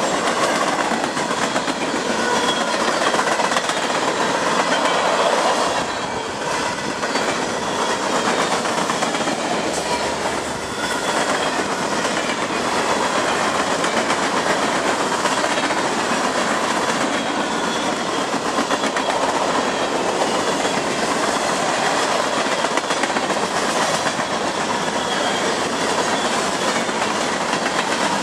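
Freight train's cars rolling steadily past at close range, boxcars and centerbeam lumber flatcars, with their steel wheels running on the rails.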